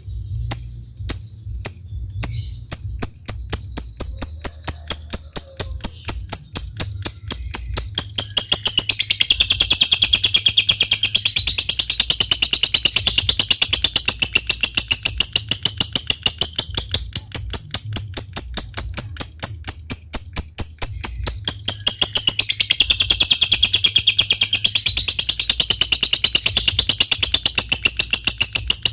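Lovebird ticking ('ngetik'): sharp, evenly spaced clicks that speed up. About nine seconds in it breaks into a long, high chattering trill ('ngekek panjang') with the ticks still running beneath; the trill eases off briefly near the twenty-second mark and then resumes. It is the full-song display that lovebird keepers play to spur other birds to sing.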